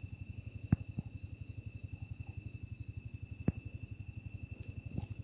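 Night insects, crickets, chirring in a steady high-pitched drone, over a fast, even low pulsing of about a dozen beats a second. A few sharp clicks stand out.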